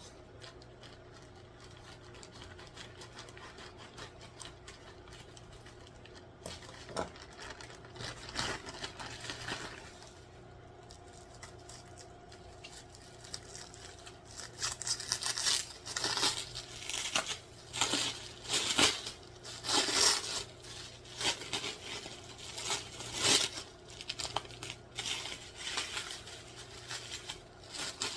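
Packaging being handled and torn open, with crinkling and tearing rustles. It is quiet at first, with a few scattered rustles, then turns into a dense run of rustling and tearing from about halfway on.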